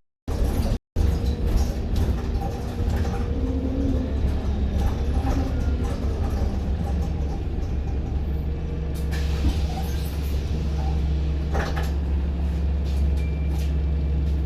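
A Stagecoach London single-decker bus's diesel engine running steadily, heard from inside the passenger cabin as a deep drone, with a few knocks and rattles about nine and twelve seconds in. The sound cuts out twice in the first second.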